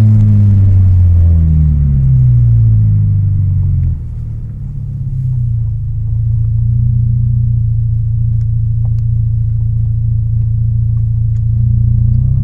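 Peugeot 306 GTI-6's four-cylinder engine through a custom 60 mm exhaust with two centre boxes and a copied Proex rear muffler, its revs falling away over about four seconds after a rev and then settling into a steady, rumbling idle.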